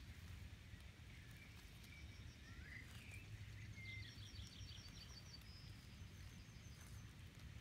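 Near silence with a low steady rumble and faint, distant bird chirps, then a quick run of thin, high bird notes from about four to seven seconds in.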